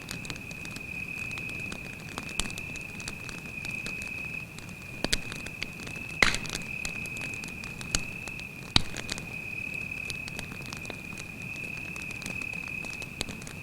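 Wood campfire crackling, with a steady low rustle of the flames and scattered sharp pops, the loudest about six seconds in. Over it runs a cricket's continuous high trill.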